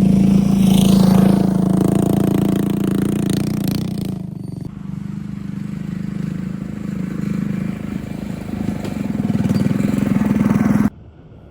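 Mini bike's small engine running hard while being ridden, easing off about four seconds in and then building up again; the engine sound cuts off abruptly near the end.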